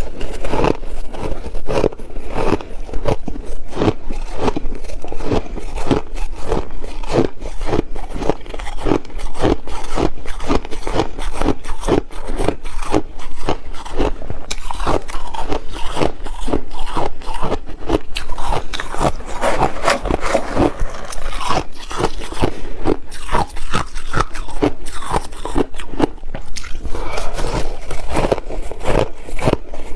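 Ice being bitten and chewed: continuous loud crunching, made of rapid sharp crunches with some scraping.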